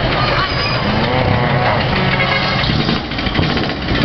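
Vehicle engines running, with a pitched sound that rises and falls about a second in.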